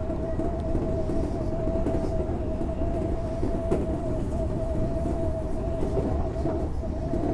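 Odakyu 8000-series electric commuter train running at steady speed, heard from on board: a constant rumble of wheels on rail with a steady mid-pitched whine, and a single sharp clack about three and a half seconds in.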